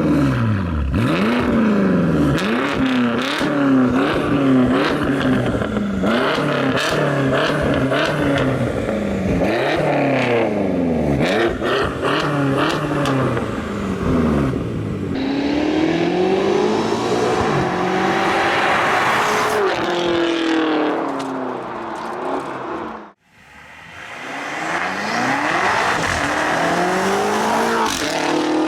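Twin-turbo V8 of a tuned BMW X6M (MANHART MHX6 700), very loud through a MANHART export exhaust. The engine note climbs and drops over and over, quickly at first, then in one longer climb and fall. The sound breaks off briefly about 23 seconds in.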